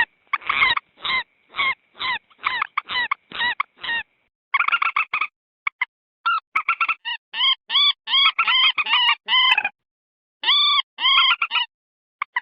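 Common moorhen calling. It gives a run of about eight short calls, then a faster series of clipped notes, and after a brief pause three more calls. The gaps drop to dead silence, as in an edited lure-call recording.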